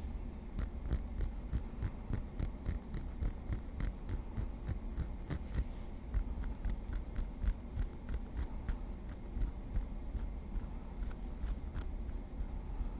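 A small wooden stick tapping lightly: a steady run of short, crisp taps at an uneven rate of about four a second.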